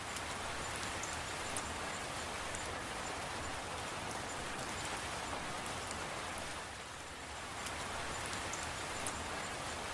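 Steady rain falling, an even hiss with scattered sharp drop ticks; it eases slightly for a moment about seven seconds in.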